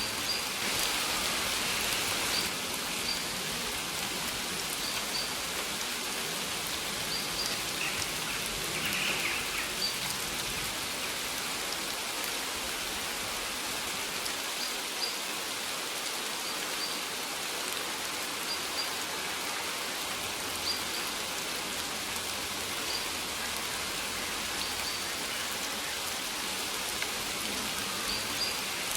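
Steady rain falling, with short high bird chirps every few seconds over it.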